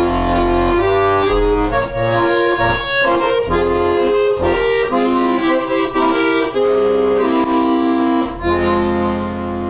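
Accordion playing an instrumental passage of a Russian folk song, melody over bass notes, settling into a held chord near the end.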